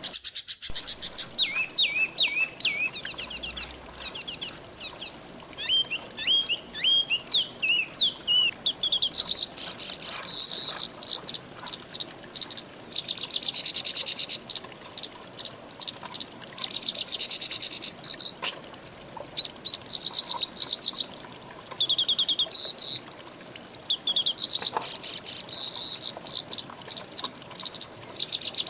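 Songbirds singing: at first a run of short, quick falling whistled notes, then from about a third of the way in, fast high trills and chattering phrases repeated again and again, over a steady high-pitched hiss.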